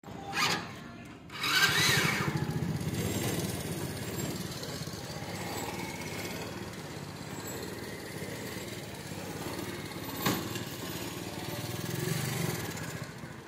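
Small motorcycle engine on a three-wheeled bike, starting about a second and a half in and then idling steadily. There is a sharp click about ten seconds in, and the engine picks up briefly near the end.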